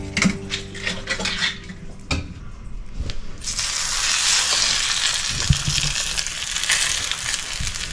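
Raw tuna burger patties laid into a hot, oiled cast-iron skillet, sizzling suddenly from about three and a half seconds in and frying steadily after that. A few light knocks come before the sizzle starts.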